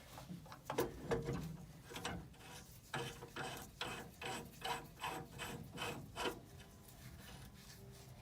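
Hand tool working on metal furnace parts: a run of short clicks and scrapes, about two a second through the middle, over a faint steady hum.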